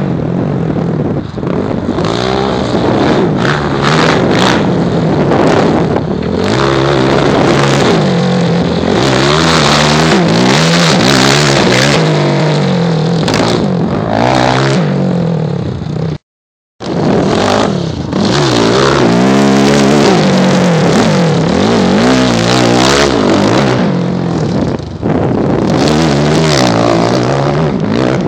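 2009 Yamaha YFZ450R's single-cylinder four-stroke engine, breathing through a DASA aftermarket exhaust, running loud and revving, its pitch rising and falling over and over. The sound cuts out completely for about half a second around the middle.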